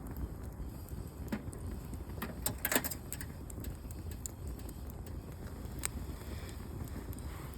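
Campfire of scrap guitar wood crackling, with scattered sharp pops and a quick run of them about two and a half seconds in, over a low wind rumble on the microphone.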